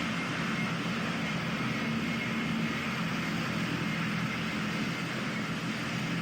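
Aircraft engines running: a steady rush of noise with a low hum underneath.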